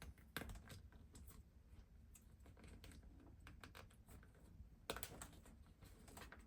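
Faint, scattered clicks and taps of small parts and tools being handled while a lawnmower is taken apart, with sharper clicks about half a second and about five seconds in.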